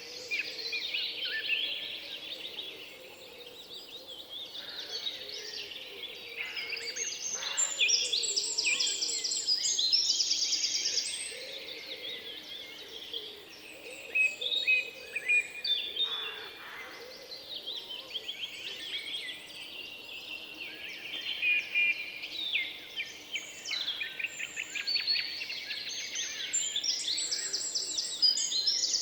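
Several songbirds singing at once: overlapping chirps, quick trilled runs and whistled phrases, over a faint steady background noise.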